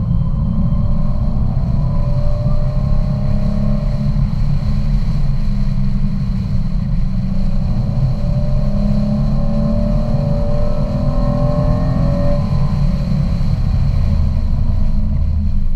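Car engine heard from inside the cabin while lapping a race track, over a heavy low rumble of road and wind noise. The engine note climbs twice under acceleration and drops off sharply about twelve seconds in.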